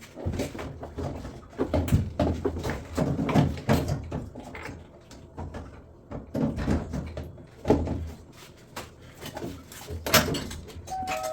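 Irregular knocks, clunks and clatter of washing-machine panels and parts being handled and fitted during reassembly of a drum washer. Near the end a few short steady tones begin.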